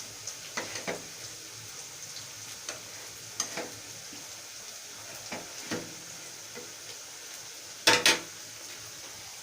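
Sliced onion frying in hot oil in a pan, a steady sizzle, while a spoon stirs and scrapes against the pan in short strokes. About eight seconds in comes a louder double scrape or knock of the spoon on the pan.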